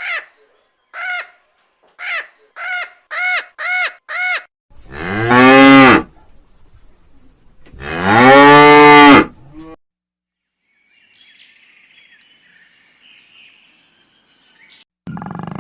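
Cow mooing twice, two long loud moos a couple of seconds apart. They follow a quick series of about seven short, higher-pitched calls.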